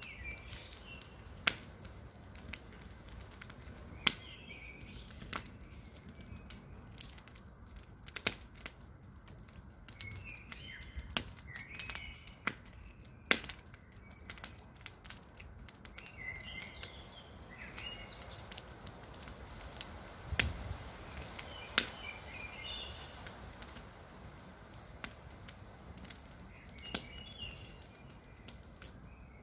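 Wood campfire crackling, with irregular sharp pops and snaps over a low hiss. Birds chirp in short phrases every few seconds in the background.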